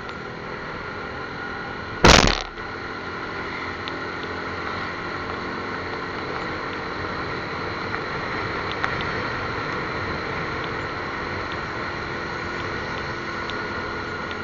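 Steady vehicle noise with a sharp, loud crack about two seconds in.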